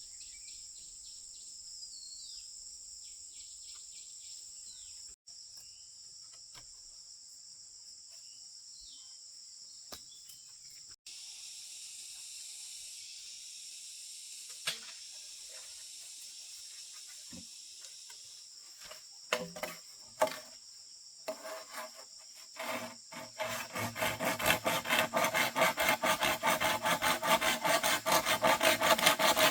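Steady high drone of crickets and other insects. Near the end, a hand saw starts cutting wood: a few scattered strokes, then a fast, regular rasping rhythm that grows louder.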